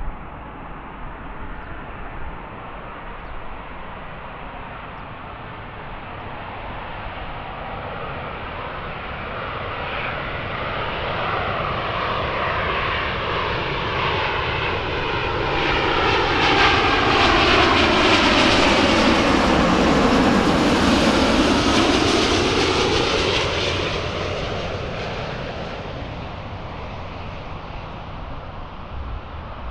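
Jet airliner passing close by: its engine noise swells to a peak about two-thirds of the way through and then fades away, with a whine that falls in pitch as it goes past.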